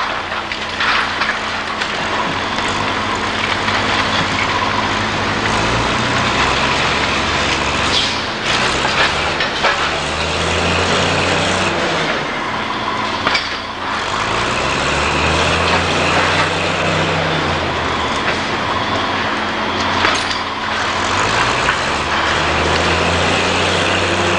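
Diesel engine of heavy demolition machinery repeatedly revving up and settling back under load, with cracking and crunching of debris several times.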